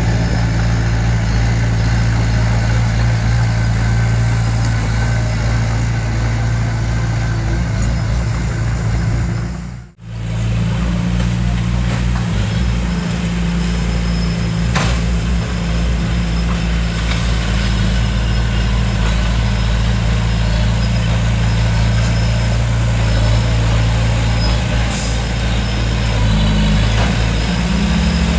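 Heavy diesel engine of a construction machine running steadily at a low, even pitch. The sound drops out briefly about ten seconds in, then the engine carries on.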